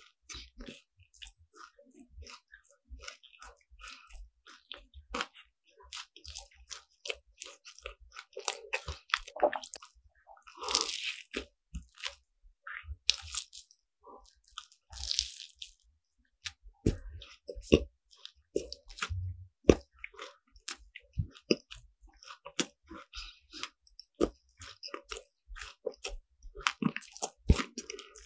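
Crunching bites and chewing of croffles, croissant dough pressed crisp in a waffle iron, heard close up. There are many short crackles of the flaky crust, with a few louder crunches.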